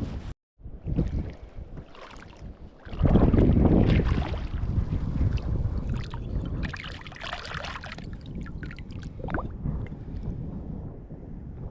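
Wind buffeting the microphone in low rumbling gusts, much louder from about three seconds in, with a few scattered clicks.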